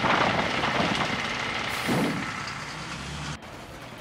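Cartoon train sound effects: a rushing, rumbling train noise with hissing swells, which cuts off suddenly near the end.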